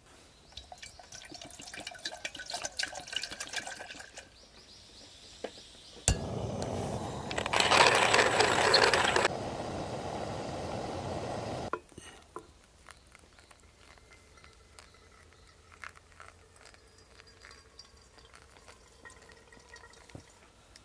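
Camp cookware clinking and rattling, then a loud steady rush of liquid pouring for several seconds that stops abruptly, followed by scattered small clicks.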